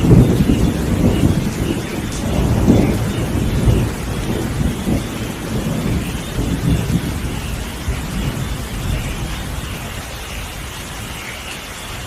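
Rain falling steadily with a long rolling rumble of thunder, loudest in the first few seconds and fading away.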